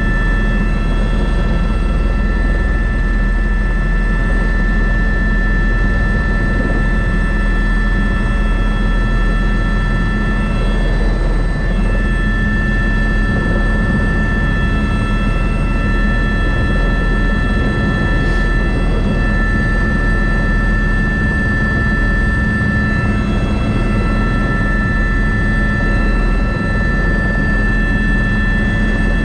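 Airbus AS350B3 (H125) helicopter running in flight, heard from on board: a steady rotor and engine sound with several constant high whining tones from the turbine and gearbox.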